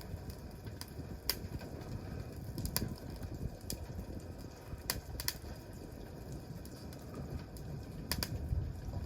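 Wood campfire crackling: about ten sharp, scattered pops of burning wood over a low, steady rumble of flame.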